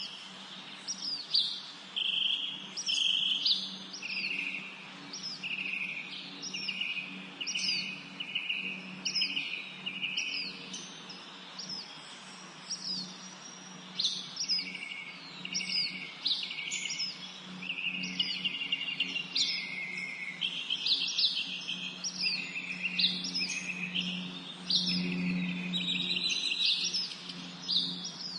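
Several songbirds singing and chirping, short high notes and warbled phrases following each other in quick succession and overlapping, over a steady low hum.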